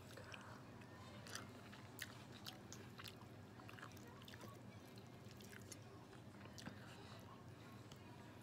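A person chewing food close to the microphone: faint wet mouth sounds with irregular small crisp clicks and crunches, about one or two a second.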